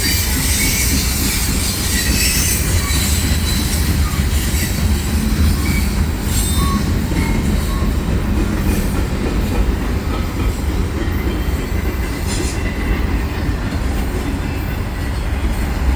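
Freight cars rolling steadily past on a curve: a constant low rumble of wheels on rail, with short high wheel squeals from the curve and a few sharp clicks.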